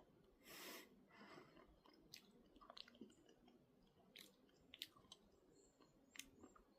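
Near silence with a short breath about half a second in and faint, scattered small clicks, in the manner of quiet chewing or mouth sounds.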